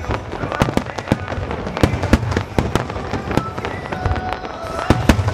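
Fireworks bursting in rapid succession: many sharp bangs and crackles, several a second, over a continuous low rumble.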